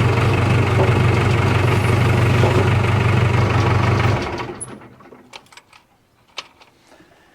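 Case 550G bulldozer's Cummins 4BT four-cylinder diesel idling steadily after a cold start from a year of sitting, then stopping about four seconds in and dying away within a second. A few faint clicks follow.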